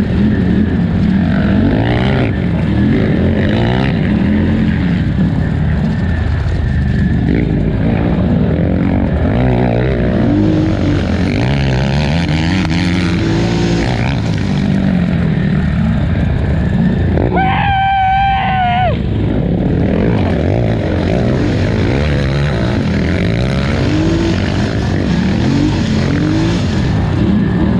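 2018 Polaris Scrambler XP 1000 ATV's parallel-twin engine revving up and down under race throttle, its pitch rising and falling all the way through. About two thirds of the way in, a high wavering whine cuts in for a second or so.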